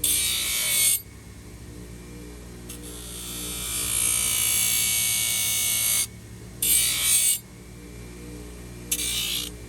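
A farrier's tool working the horn of a horse's hoof in several bursts of scraping: a short one at the start, a longer one of about three seconds in the middle, and two short ones near the end. Quiet background music runs underneath.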